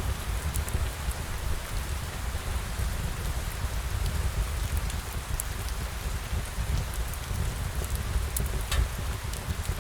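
Steady rain falling on a surface, with a constant low rumble underneath and scattered faint clicks.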